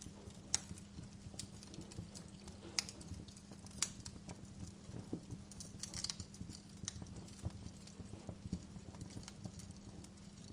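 Wood fire crackling in a fireplace: irregular sharp pops and snaps from the burning logs, a few louder cracks standing out, over a steady low hum.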